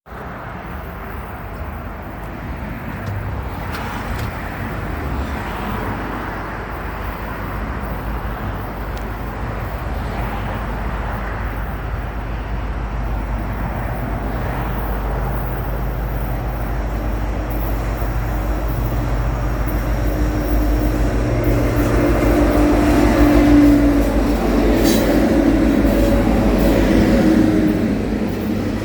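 A train approaching, its rumble growing gradually louder for about twenty seconds, with a steady humming tone joining in past the midpoint.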